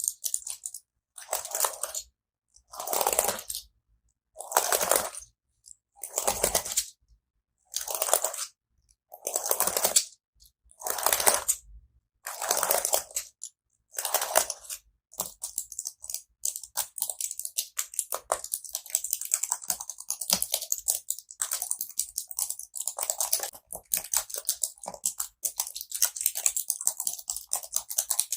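Keyboard keys clicking close to the microphone, in short runs of keystrokes about every couple of seconds, then a continuous run of typing over the second half.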